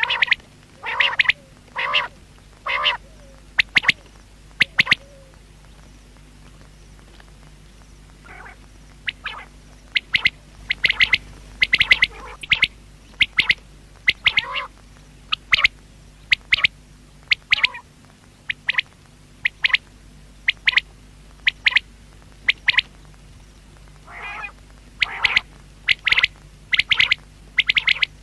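Common quail calling over and over: short, sharp notes, some single and some in quick runs of two or three, with brief pauses between.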